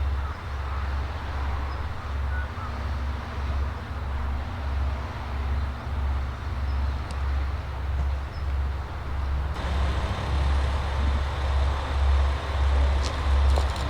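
Cabin noise of a KiHa 185 diesel railcar under way: a steady low rumble of engine and running gear that swells and fades about once a second.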